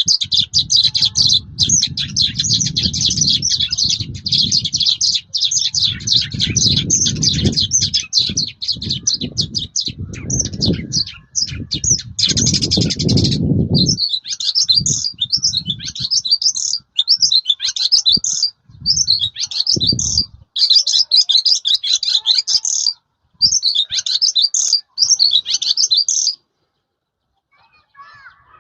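Caged Mongolian lark singing a loud, fast, varied song while fluttering its wings, which give dull low flutters under the song through the first half and once more about twenty seconds in. Later the song comes in short phrases with brief pauses, and it stops a couple of seconds before the end.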